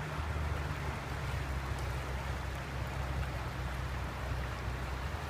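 Floodwater rushing steadily down a normally dry desert wash: an even hiss over a deep, constant rumble.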